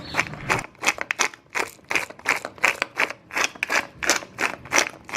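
Pepper mill grinding black pepper: a quick, even run of short crackly grinding strokes, about three a second.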